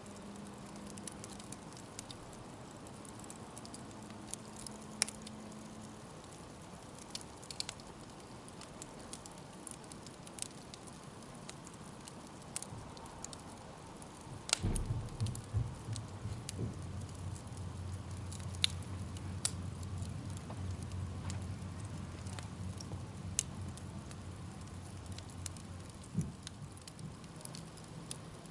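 Wood fire crackling: scattered sharp pops and snaps over a steady hiss. About halfway through there is a knock, then a low rumble that runs on until near the end.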